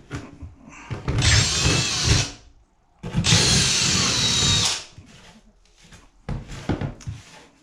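Power drill boring through a fiberglass bathtub at the end of a crack, in two bursts of a second or more with the motor's pitch sliding as it bites. A few light knocks follow near the end.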